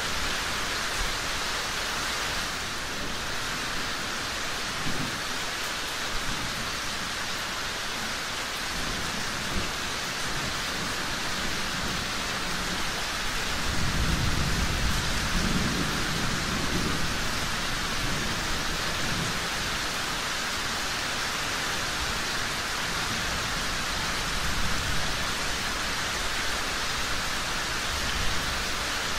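Steady rain falling, an even hiss, with a low rumble of distant thunder swelling up about halfway through.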